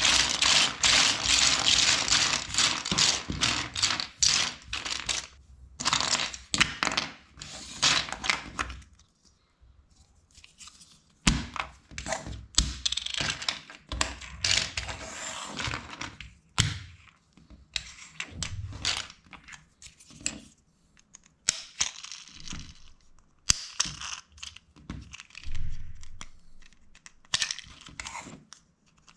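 Plastic LEGO pieces being handled: a dense clatter and rustle for the first several seconds, then, after a short lull, scattered clicks and brief rustles as pieces are picked out and pressed together.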